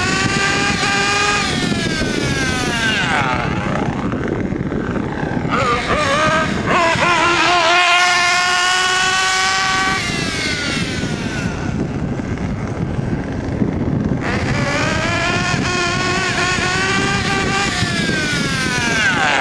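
Kyosho Inferno MP9 1/8-scale RC buggy's TKI3 nitro engine running at high revs, a high-pitched buzz that swells and rises and then drops sharply in pitch three times as the buggy passes. This is the engine's first tuning run after break-in.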